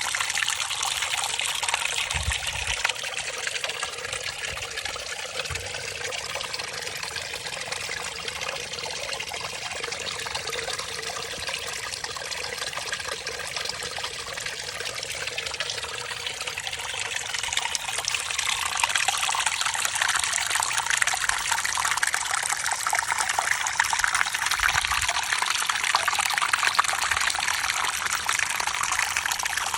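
Flowing water of a small stream trickling and gurgling steadily, getting a little louder about two-thirds of the way through.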